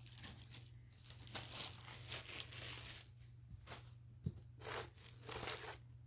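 Faint crinkling and rustling of packaging being handled, in a string of short irregular rustles.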